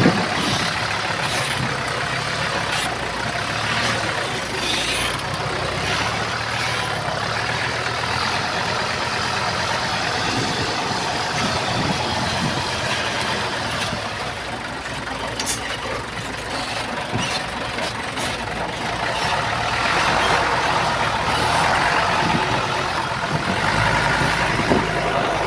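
Diesel engines of heavy earthmoving machinery running steadily, with scattered clanks, growing louder about twenty seconds in.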